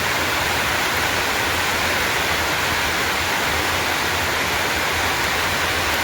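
Heavy rain falling in a steady, even hiss that neither rises nor falls.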